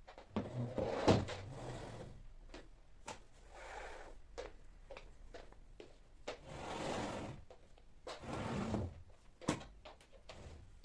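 Household handling sounds during cleaning: scattered clicks and knocks of things being moved and set down, with a few short sliding or rubbing noises, the longest about six to seven and a half seconds in, and a sharp knock about nine and a half seconds in.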